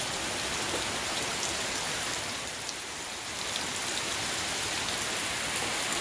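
Steady rushing hiss of falling water from a waterfall.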